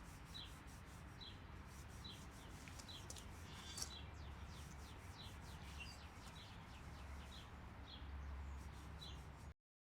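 A bird chirping repeatedly and faintly, short high chirps about once a second, over a low steady hum. One sharp click comes near the middle, and the sound cuts off abruptly just before the end.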